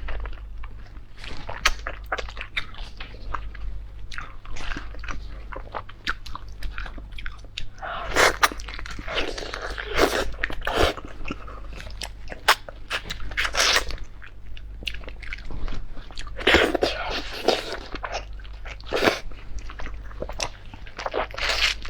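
Close-up eating sounds: irregular crunching, biting and chewing of food, with a steady low hum underneath.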